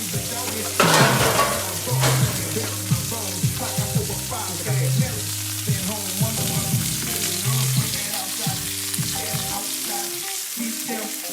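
Food frying in a hot pan, with a loud rush of sizzling about a second in, over background music.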